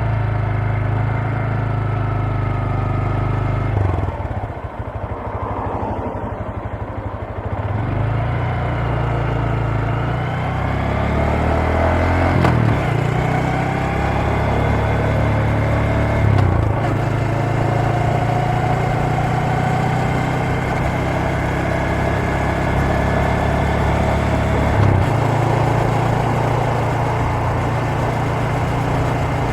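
Honda MSX125 Grom's 125cc single-cylinder four-stroke engine and exhaust running while riding. The revs drop off about four seconds in, pick up again, and step through several gear changes.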